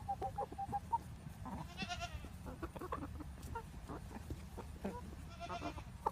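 Chickens clucking and calling while they feed: quick runs of short notes, a couple of longer squawks, and scattered sharp taps of beaks pecking.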